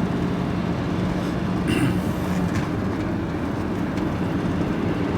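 Steady engine and road noise inside a van's cab at speed on a main road, a constant low hum under tyre rumble.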